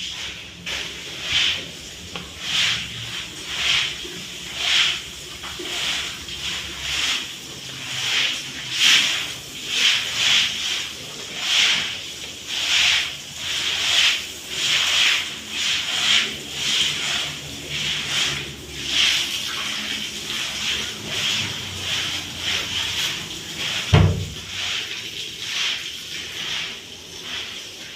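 Rhythmic scrubbing strokes on a wet cowshed floor, about one and a half strokes a second, as the leftover dung is washed off with water. There is a single sharp thump about four seconds before the end.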